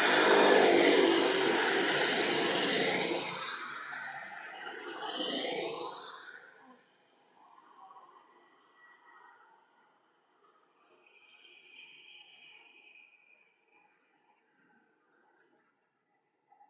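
A loud rushing noise that fades out after about six seconds, then a bird's short high chirps repeated about once a second.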